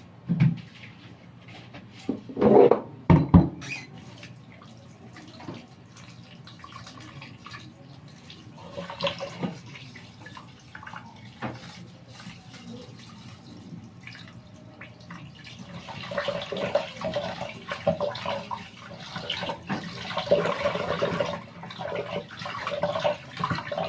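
Water from a kitchen tap running and splashing in a sink, getting heavier and busier in the last third. There are a few loud knocks about two to three seconds in.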